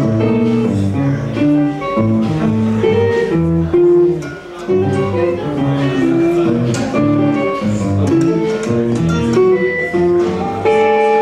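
Guitar music: plucked notes following one another quickly over a bass line.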